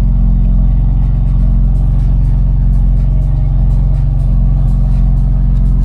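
BMW M4 Competition's twin-turbo straight-six, fitted with catless downpipes, idling cold: a steady, unbroken low drone.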